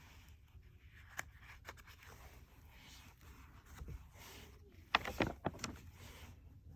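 Faint clicks and scrapes over a low, steady rumble: a single sharp click about a second in, and a quick cluster of them about five seconds in.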